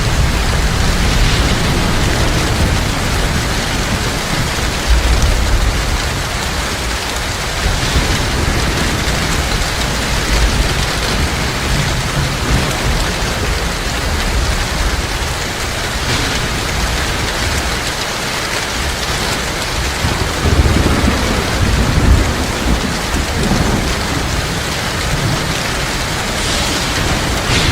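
Heavy rain pouring steadily, with deep rumbles of thunder rising and fading at times, strongest about two-thirds of the way through.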